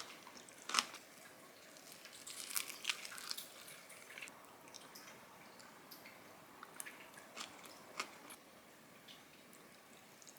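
Someone eating: scattered crisp crunches and chewing, with a few sharper bites about a second in, around three seconds and near eight seconds, and quieter crunches between.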